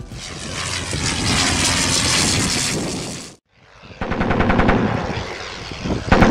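Aircraft engine noise in two stretches: a steady drone that swells and cuts off abruptly about three and a half seconds in, then a second stretch with a rapid, even pulsing.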